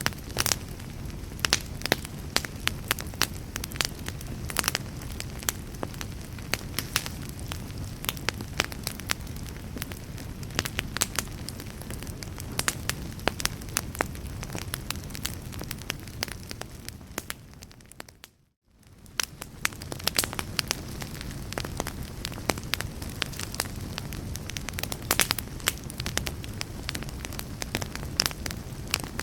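A burning fire crackling, with many sharp pops over a steady low rumble. About two-thirds of the way through it fades briefly to silence and then fades back in, like a loop point in the recording.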